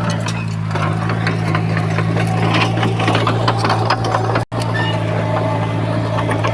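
Heavy construction machine's diesel engine running steadily, with irregular rattling and clanking over it. The sound drops out for an instant about four and a half seconds in.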